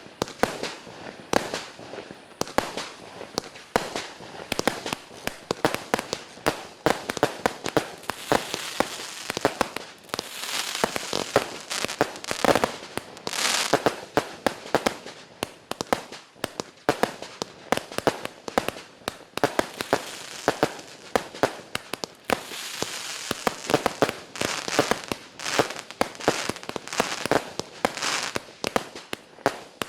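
A 128-shot 20 mm fireworks cake firing, with sharp shots coming several a second and denser stretches partway through.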